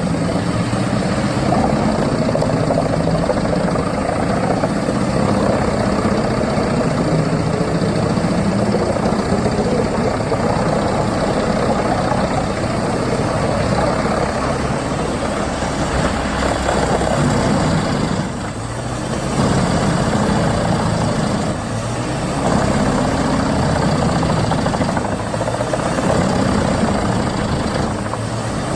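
Crane-fed drum wood chipper running under load, its engine and drum a loud steady drone, dipping briefly in level a couple of times in the second half.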